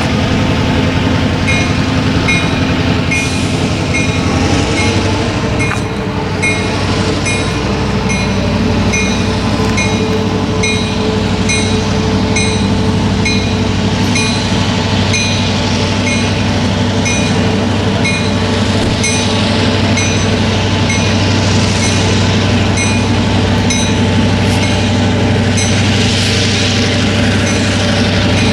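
A diesel freight locomotive running as its train moves past, with a steady engine drone. Over it a bell rings in quick, evenly repeated strokes.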